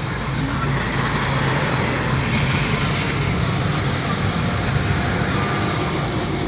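Automatic car wash machinery running: a steady rushing noise heard from inside the car.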